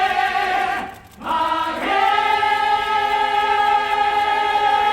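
A group of cast members calling out their fighting call together in unison with long held voices. There is a short break about a second in, then one long drawn-out call.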